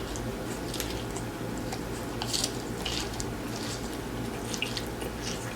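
Quiet, wet mouth sounds of chewing taco, heard as scattered soft clicks and smacks at irregular intervals over a steady low hum.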